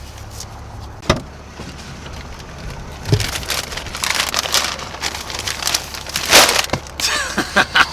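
Road and engine noise inside a moving truck's cabin, a steady low hum, with a sharp click about a second in and louder rustling and knocks in the second half.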